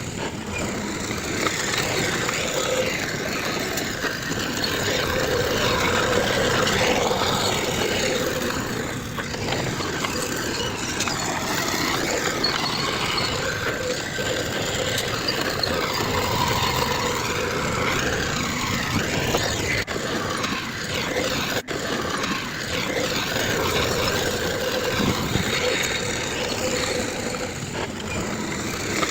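Heavy diesel earthmoving machinery running steadily, with a constant engine drone and a held tone. The sound drops out briefly about two-thirds of the way through.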